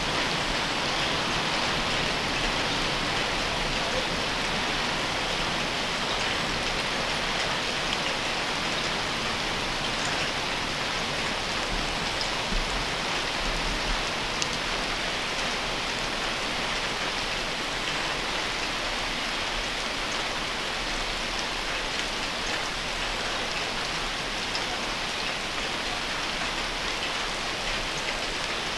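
Steady rain falling on garden trees, maize plants and ground: an even hiss with a few sharper drop ticks.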